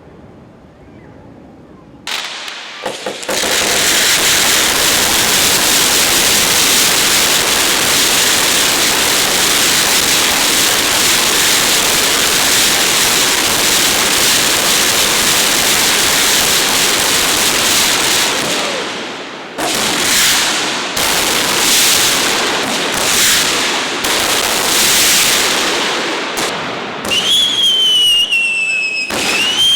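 Fireworks display: after a short lull, a dense, unbroken barrage of crackling bursts runs for about sixteen seconds. It gives way to separate bangs, and near the end to whistling shells gliding down in pitch.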